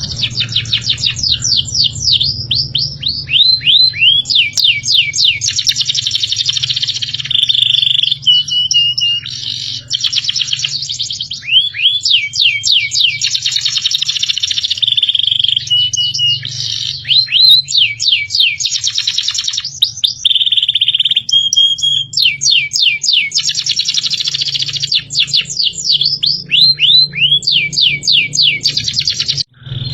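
Songbird masteran recording: rapid runs of high, downward-sweeping chirps and trills, the same song sequence repeating about every ten seconds as a loop, over a steady low hum.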